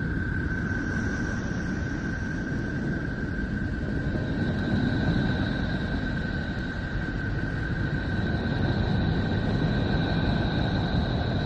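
NASA-style planetary 'sound', spacecraft data turned into audio: a steady deep rumbling noise with a steady high whistle-like tone over it, joined by a second, higher tone about four seconds in.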